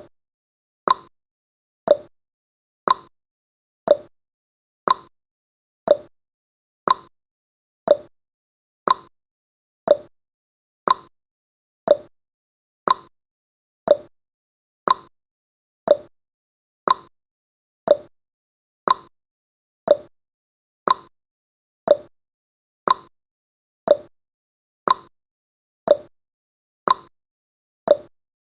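Tick-tock sound effect of a countdown timer: sharp ticks about two a second, alternating higher and lower in pitch, with silence between them.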